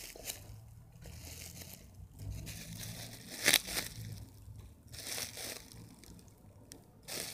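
Crinkling and rustling as crinkly material, likely packaging, is handled, in scattered bursts with a sharp click about three and a half seconds in.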